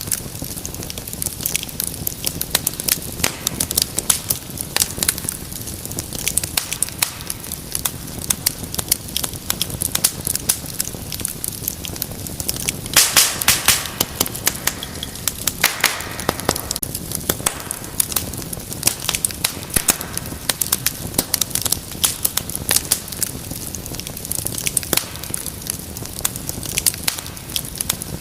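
Fire in a fireplace crackling, with many sharp pops over a low, steady rumble of flame. A burst of louder pops comes about 13 seconds in, followed by a short hiss.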